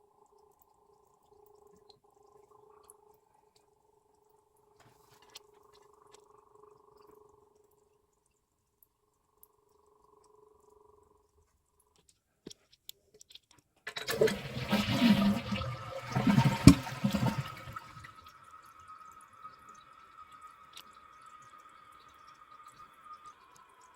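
Toilet flushing: after a faint steady hum, a loud rush of water starts about halfway through and lasts about four seconds, then settles into the quieter hiss of the tank refilling with a faint whine.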